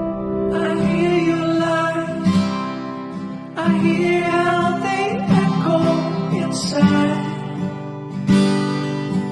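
Background music: acoustic guitar strumming chords, with a new strum every second or two.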